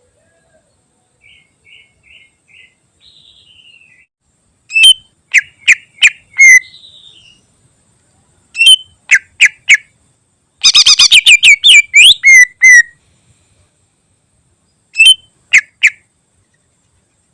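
Green leafbird (cucak ijo) singing in separate phrases of loud, sharp whistled notes with short silent pauses between them. About two-thirds of the way through comes a fast rattling run of notes. The song is the kind packed with imitated calls of other birds.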